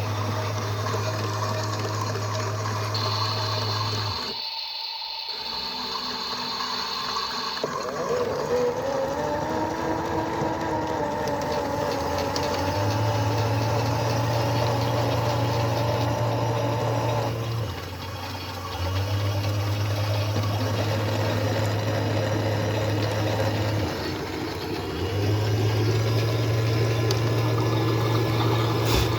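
Washing machines running with water rushing, a low pump hum switching on and off four times, and a high steady tone for about four seconds near the start.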